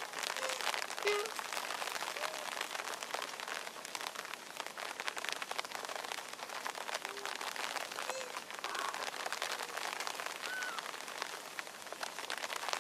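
Steady rain pattering on the ground and foliage, with a handful of short calls that rise and fall scattered through it.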